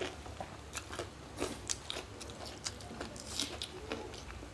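Close-miked chewing with irregular crisp crunches and mouth clicks from people eating rice and crunchy fried papad by hand.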